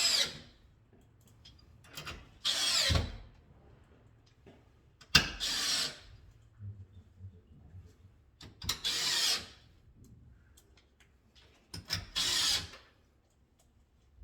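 Electric drill-driver running in short bursts, about five of them, each under a second and roughly three seconds apart, as screws are driven into the work board.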